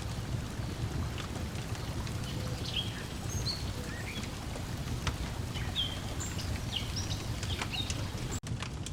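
Layered lakeside ambience: a steady low wash of lake water lapping, a wood fire crackling with scattered sharp pops, and small birds chirping many short notes through the middle. The sound cuts out for an instant near the end.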